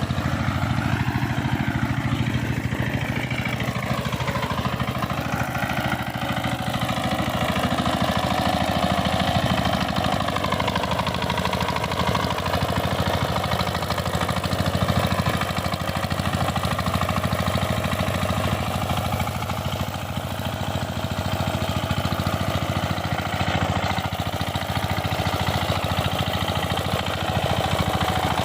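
Power tiller engine running steadily with a fast, even chug, its pitch wavering a little in the first few seconds.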